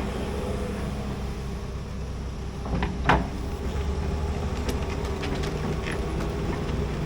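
Large excavator running steadily, with metallic clanks about three seconds in.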